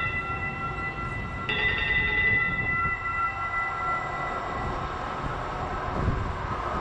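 MAX light rail train's warning bell ringing, struck again about a second and a half in, each ring fading slowly, over the low rumble of the train.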